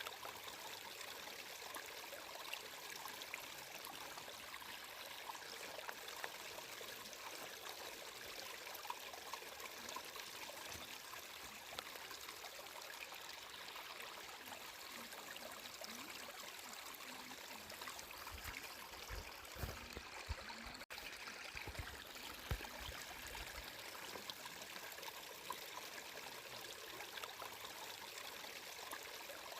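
Flowing water trickling and splashing steadily. A few low thumps come about two-thirds of the way through.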